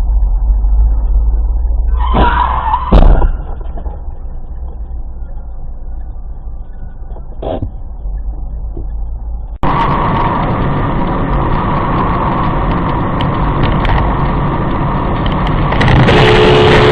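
Car interior road and engine noise recorded by a dashcam, with a loud burst and a sharp knock about three seconds in. About ten seconds in the sound changes abruptly to louder, hissier road noise.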